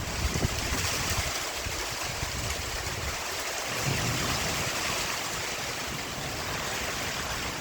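Heavy rain pouring down in a steady hiss, with gusts of wind rumbling on the microphone.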